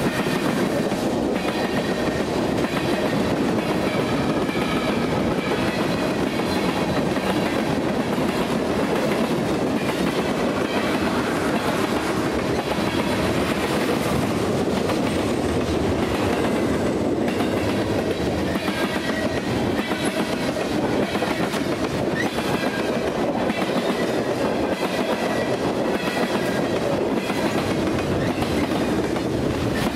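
Mixed freight train of tank cars, gondolas and boxcars rolling past: a steady rumble of steel wheels on the rails, with scattered clacks as the wheels cross rail joints.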